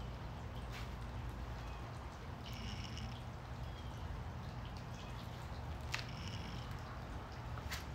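Back-yard ambience: a steady low hum with short high chirping bird calls, once about two and a half seconds in and again about six seconds in, and a few light clicks.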